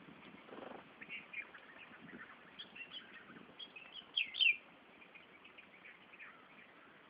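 Small birds chirping: a scattered run of short high chirps, with the loudest two close together about four seconds in.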